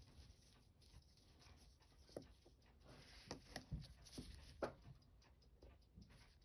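Faint, scattered clicks and light taps of small watchmaking tools working on a vintage Seiko chronograph, about half a dozen in all, bunched between two and five seconds in.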